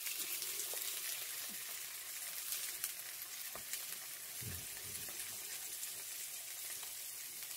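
Slices of tofu sizzling in oil in a frying pan: a steady crackling hiss, with a sharp click about three and a half seconds in.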